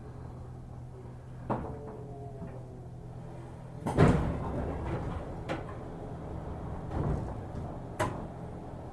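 Inside a 205-series commuter car standing at a station with its doors open: a steady low hum from the idle train, with several knocks and thumps, the loudest about four seconds in.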